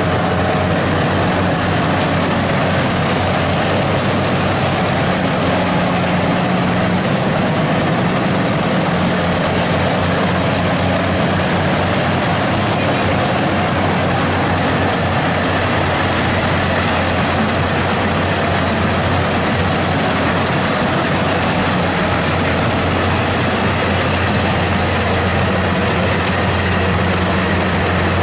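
Rice combine harvester running steadily: a constant engine drone with a low hum under an even rush of machine noise.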